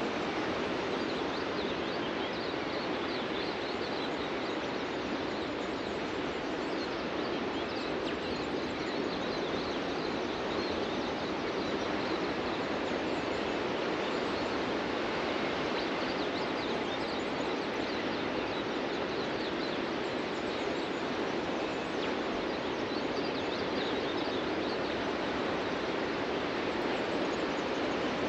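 Ocean surf on a beach: a steady rushing wash of waves with no clear break between them. Faint high bird chirps come through it here and there.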